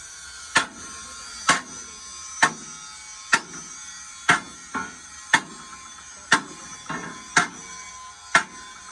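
Hammer blows on steel, about one a second, each ringing metallically, with a couple of lighter taps in between.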